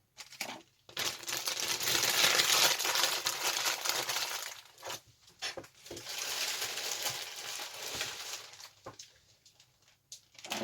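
Clear plastic bag crinkling as it is handled around plastic model-kit sprues, in two long spells with a few sharp plastic clicks between them and near the end.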